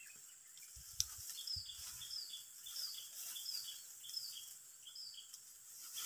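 A bird chirping: short, high, downward-sliding notes repeated about one and a half times a second, over a faint steady hiss, with one sharp click about a second in.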